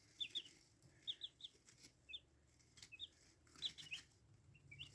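Buff Orpington chicks peeping faintly: short, high, falling chirps in small clusters of two or three, about once a second.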